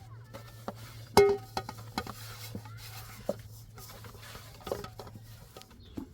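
A metal pot or cooking vessel clanks once about a second in, ringing briefly, followed by scattered light knocks and clicks of cookware being handled.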